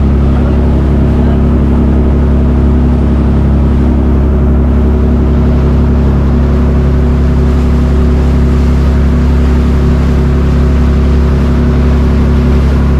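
Boat engine running steadily at an even speed, a loud constant drone with a deep hum.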